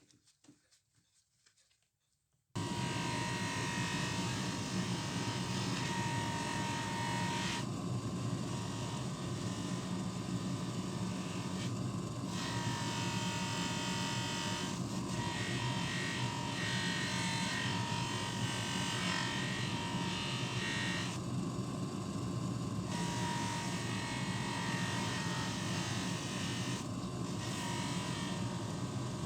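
A small electric motor switches on abruptly about two seconds in and runs steadily, with a constant whine; its higher hiss drops away and returns several times, as under changing load.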